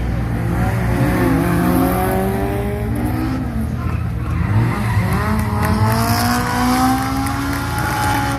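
Datsun 1200 rally car's swapped-in Honda F20C 2.0-litre inline-four revving hard under acceleration. The pitch climbs, drops about three and a half seconds in, then climbs again.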